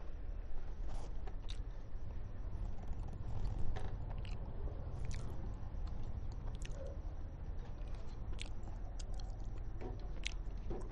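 Close-up chewing of a mouthful of roast chicken and rice, with wet mouth clicks and smacks scattered irregularly over a steady low hum.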